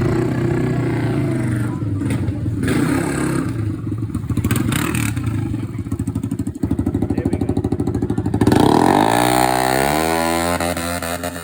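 Motorcycle engines running with a fast, even pulse, then revving from about eight seconds in, their pitch sweeping up and down several times.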